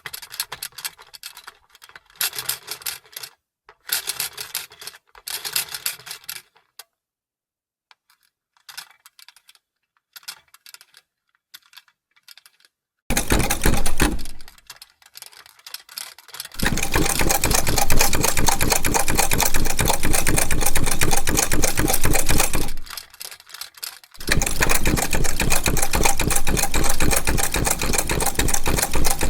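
Vintage sewing machine sewing. First come short, broken runs of clicking stitches with gaps between them. About halfway through it runs fast and loud with a rapid, even clatter, stops briefly near the end, then starts again.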